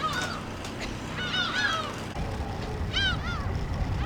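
Gulls calling in short, arched cries: one at the start, a cluster of three or four around a second and a half in, and two more near the three-second mark. A low rumble comes in about two seconds in.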